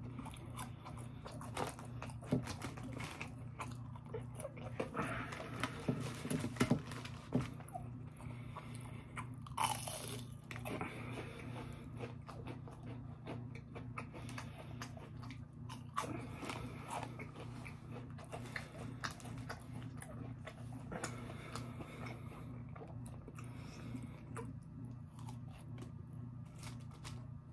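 A person biting and chewing crunchy fried food close to the microphone: uneven crunches and wet chewing clicks, busiest and loudest in the first ten seconds. A steady low hum runs underneath.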